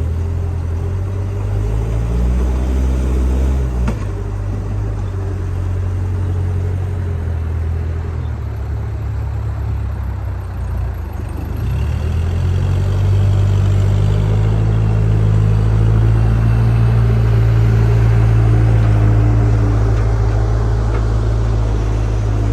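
Diesel engine of a JCB backhoe loader running with a steady low note. The pitch shifts a few times, and a little past halfway the engine grows louder and holds there under heavier load.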